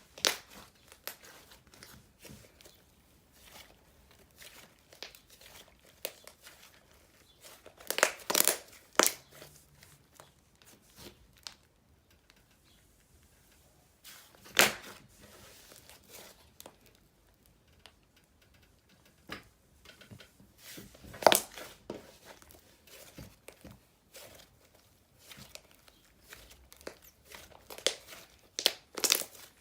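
Soft, silky inflating slime being stretched, folded and pressed by hand: sticky crackling and small pops, with several louder snaps spread through.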